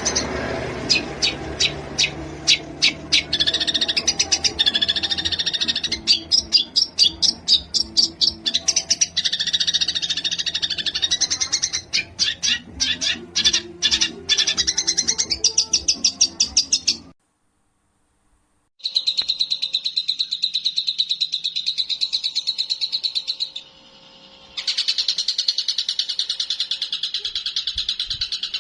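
Recorded songbird song, the fast 'tembakan' material of a masteran track: rapid clicking notes and chattering trills. About 17 seconds in the recording cuts to silence for a couple of seconds, then a fast, high, even trill follows, dropping away briefly and starting again.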